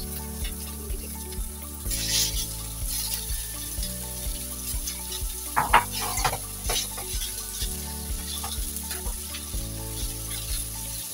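Thinly sliced pork sizzling as it stir-fries in a wok, with the chopsticks stirring it and clicking against the pan now and then. The loudest clicks come a little before six seconds in.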